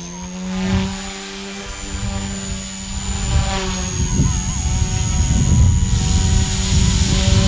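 XK K130 micro RC helicopter in flight at high headspeed: a steady rotor hum with a thin high electric-motor whine over it, and a gusty low rumble of rotor wash underneath.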